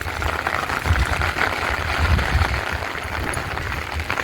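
Heavy rain falling steadily in a strong wind, with gusts buffeting the microphone as an uneven low rumble under the hiss of the rain.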